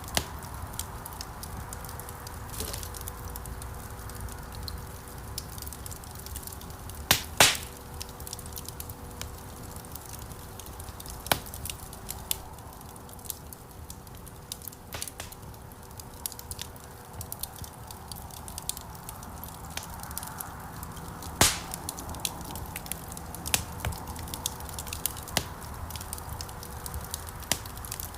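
Wood fire burning in a fireplace: a steady low rush of flames with scattered crackles. The loudest are sharp pops, two in quick succession about seven seconds in and another about twenty-one seconds in.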